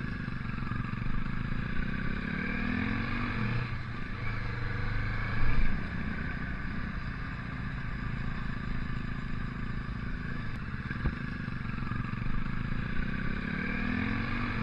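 Motorcycle engine running under way, its revs climbing twice, about two seconds in and again near the end, over steady wind and road noise, with a brief louder burst about five and a half seconds in.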